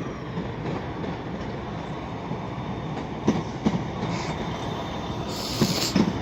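Pair of class 153 diesel multiple units rolling through a station with a steady low running rumble. The wheels knock over rail joints in pairs, twice in the second half, with a brief hiss near the end.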